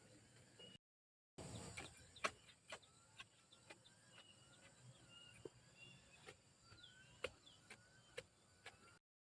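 Faint birds chirping in short rising and falling calls, with scattered sharp clicks and taps. The sound cuts out completely twice, briefly.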